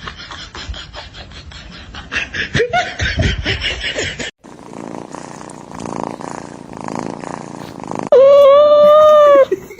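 A mix of pet-video sounds: scattered clicks and short voiced sounds, then after a sudden cut a steady hiss. Near the end comes the loudest sound, one long, loud, drawn-out call from a pet animal, lasting about a second and a half.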